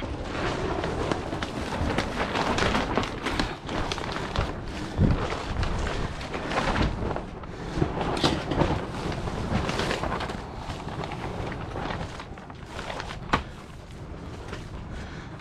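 Gusty wind buffeting the microphone, with rustling noise and a few sharp clicks scattered through.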